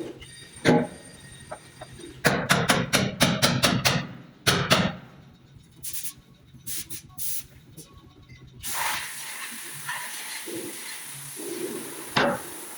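Bodywork on sheet steel: a quick run of about eight sharp knocks, a few more single knocks, then a steady high hiss that starts about two-thirds of the way through.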